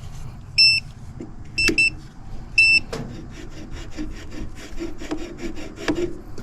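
Short electronic beeps from digital HVAC test instruments: a single beep, a double beep and another single beep in the first three seconds. Then a quick run of scraping and rubbing strokes as the clamps are handled, with a low hum underneath.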